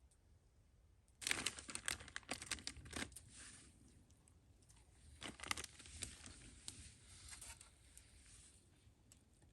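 Crinkling and rustling of something being handled, in two spells: one about a second in, the other from about five seconds in.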